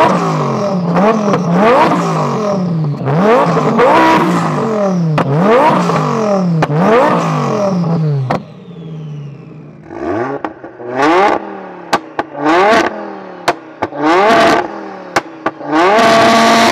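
Twin-turbo Audi R8's V10 revved hard from standstill again and again in quick rising and falling sweeps. About eight seconds in it gives way to a built Audi TT RS's turbocharged five-cylinder blipped in short sharp stabs, with pops between them and a held rev at the end.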